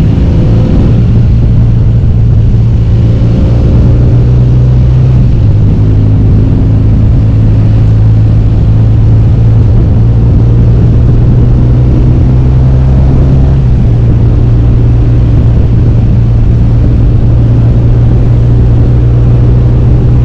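BMW R1200GS boxer-twin motorcycle engine and exhaust running under way, a steady engine note that shifts pitch a couple of times as the throttle and speed change.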